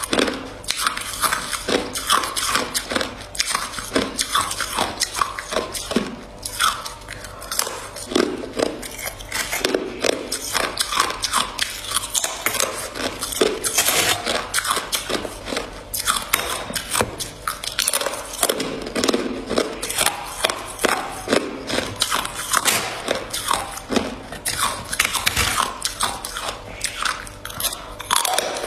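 A person biting and chewing ice: a close, continuous run of sharp crunches and cracks.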